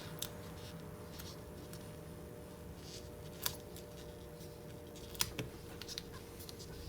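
A handful of short, sharp clicks or snips, the loudest about three and a half and five seconds in, over a steady low hum.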